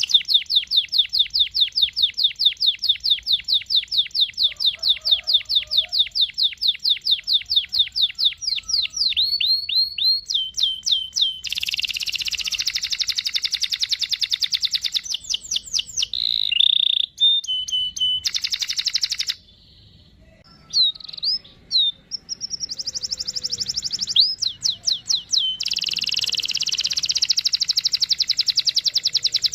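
Canary singing: long rolling trills of rapidly repeated high notes, about eight a second, broken by shorter varied phrases and a brief pause about two-thirds of the way through.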